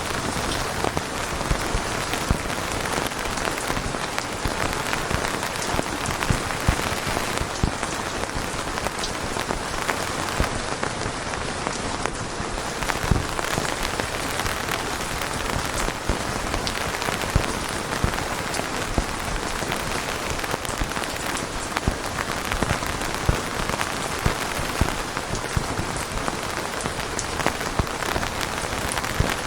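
Steady rain falling on a surface, a dense even hiss with many individual drops ticking and pattering through it.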